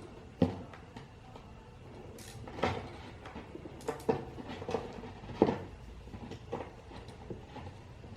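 Irregular knocks and clunks from handling and fitting front suspension parts, six or so strikes, the sharpest about half a second in and about five and a half seconds in.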